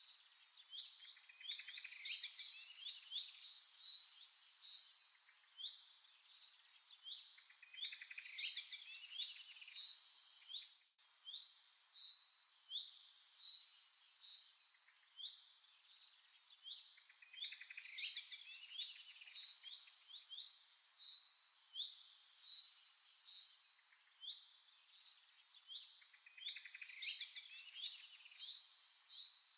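Small birds chirping and twittering: many short, quick chirps and fast trills overlapping. The same run of calls recurs about every nine seconds, as in a looped bird recording.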